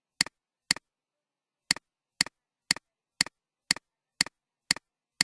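Sharp, regular ticking clicks, each a quick double click, about two a second, with one beat skipped about a second in.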